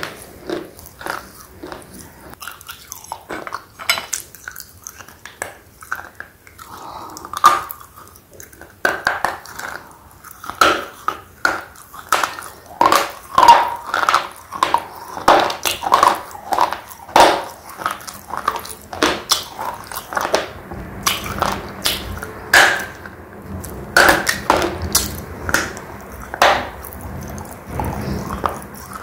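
Slate pencil being crunched and chewed close to the microphone: a fast, irregular run of sharp crunches, sparser in the first few seconds and denser from about nine seconds in.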